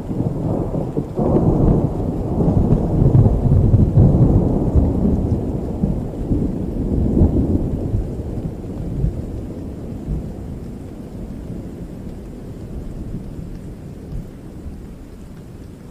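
A long roll of thunder over steady rain: it breaks in sharply about a second in, rumbles low and heavy for several seconds with a second swell, then slowly dies away.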